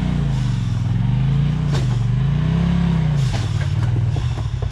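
Off-road vehicle engine revved up and down twice under load while rock crawling, with a single knock about midway, then dropping back to a steady idle a little after three seconds in.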